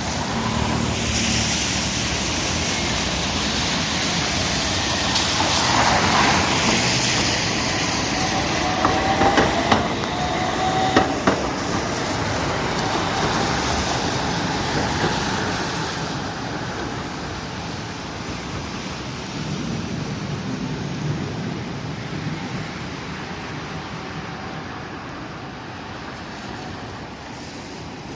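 A two-car Okaden streetcar running on its tracks. About nine to eleven seconds in there are a few sharp clatters and a faint squeal, and the noise then slowly fades.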